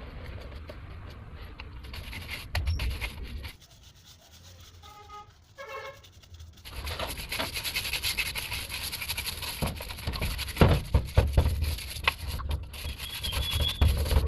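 Brush scrubbing a metal car engine part, a scratchy rubbing with many small clicks. Partway through it stops for a few seconds, broken only by a short pitched sound, then starts again.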